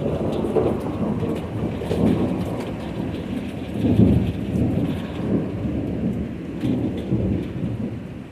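Thunder rolling in, breaking out suddenly and rumbling in several swells, loudest about four seconds in, over steady rain falling on surfaces.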